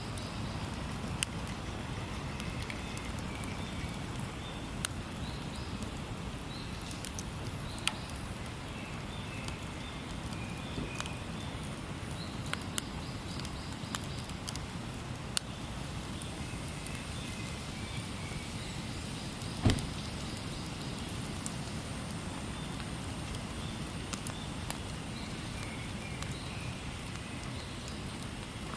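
Firewood burning in a Coleman Fireplace 3 fire pit, crackling with scattered sharp pops over a steady low rumble; one louder pop comes about two-thirds of the way through.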